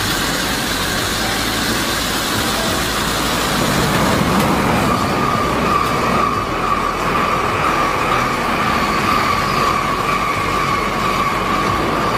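N700 Shinkansen train running past a station platform: a steady rush of train noise, joined about five seconds in by a high, steady whine that drifts slightly lower.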